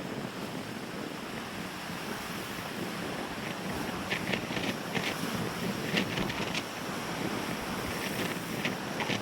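Lake waves washing on the shore with wind buffeting the microphone, and short crisp clicks now and then in the second half.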